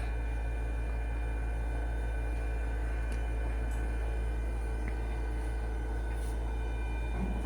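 Seed-sorting machine running with a steady low hum and several constant tones above it, with a few faint clicks.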